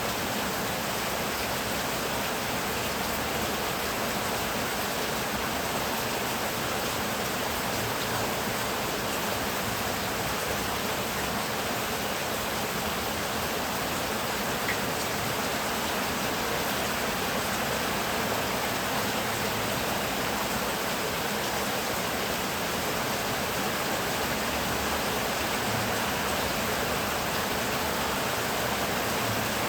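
Heavy rain falling, an even, steady hiss with no rise or fall.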